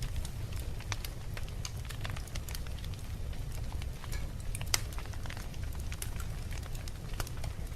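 Wood fire burning in a fireplace, the logs crackling with frequent sharp pops over a steady low rumble of the flames, one pop louder than the rest a little past halfway.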